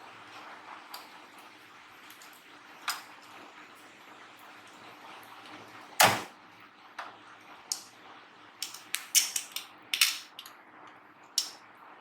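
Clicks and knocks of the sewing machine's housing parts and tools being handled during reassembly, with one louder knock about six seconds in and a quick run of clicks near the end.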